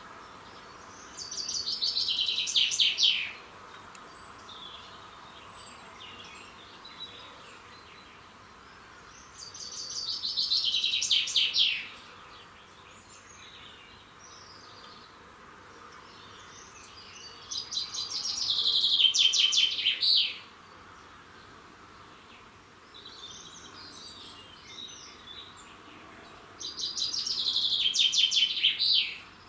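A songbird singing: four songs about eight seconds apart, each a fast trill of about two seconds that falls in pitch. Fainter chirps from other birds come in between.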